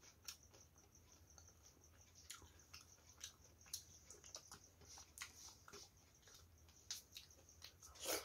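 Close-miked eating sounds: wet chewing and mouth clicks as a person eats rice mixed with fish curry by hand, with a louder smack near the end.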